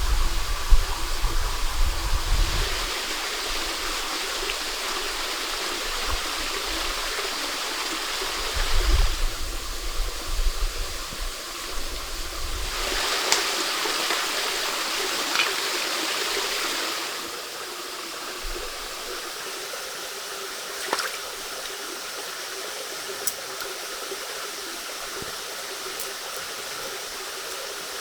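Stream water running steadily, a rushing hiss that swells for two stretches, early on and around the middle, with low rumbles in the first ten seconds and a few faint clicks later.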